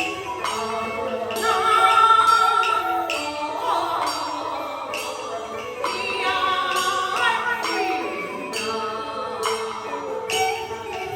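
Beiguan Fulu-style opera singing: a voice holds long, wavering and gliding notes over the ensemble's instrumental accompaniment. Sharp percussion strikes mark the start and the end of the phrase.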